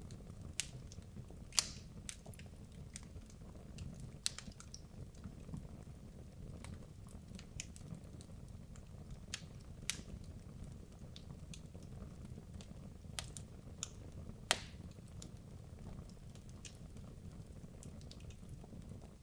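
Wood logs burning in a fireplace: irregular sharp crackles and pops over a low steady rumble of the flames, with a handful of louder snaps spread through.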